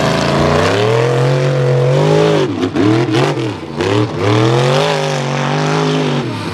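Mega mud truck engine revving hard. Its pitch climbs over the first two seconds, drops off and picks back up several times in quick succession, then holds high before dropping again at the end.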